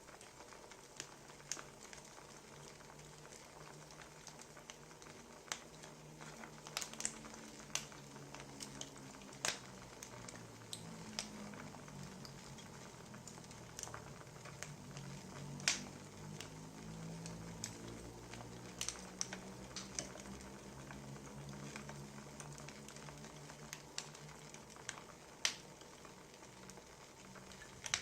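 Wood fire crackling: irregular sharp pops and snaps of burning firewood, a few a second, over a soft low rumble.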